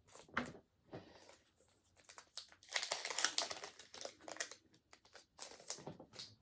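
Foil wrapper of a Pokémon trading-card booster pack crinkling in the hands as it is opened, in irregular spurts with a denser stretch of crackling about three seconds in and another near the end.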